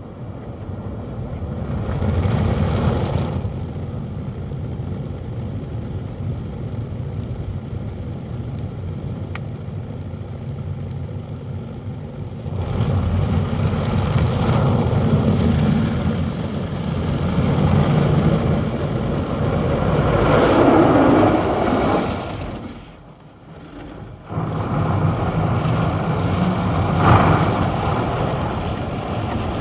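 Automatic car wash machinery running over the car, a loud steady rush of spraying water and machine noise heard from inside the cabin, swelling and easing, with a sharp drop for a couple of seconds about three-quarters of the way through.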